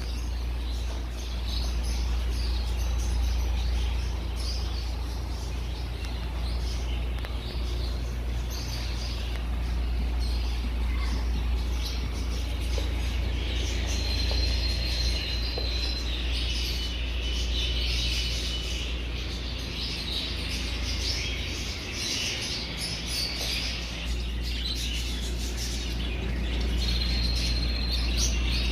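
Many caged birds chirping and twittering together, with a few short steady whistled notes, over a steady low hum.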